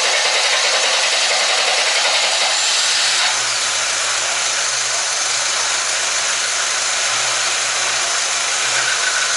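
Freshly rebuilt Lada Niva four-cylinder engine being cranked by the starter, catching a little after three seconds in and then running steadily at idle on its first start after the rebuild.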